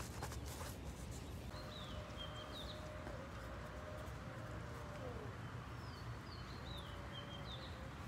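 Small birds chirping in two short spells of quick up-and-down calls, over a steady low rumble of open-air ambience.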